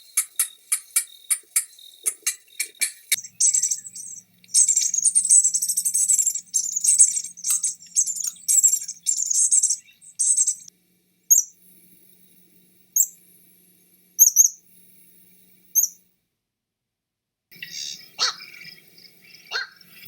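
Several different bird calls and songs in succession. First a fast run of repeated notes, then a dense, high twittering song until about ten seconds in, then a few short high chirps spaced out by a second or more. After a brief gap, different, lower calls come in near the end.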